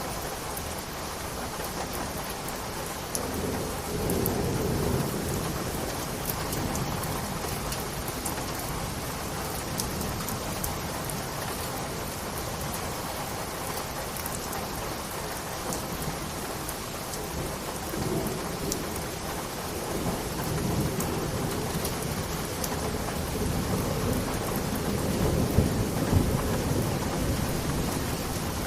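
Steady rain falling, with fine drop ticks, and low rolling thunder swelling in about four seconds in and again through the last third.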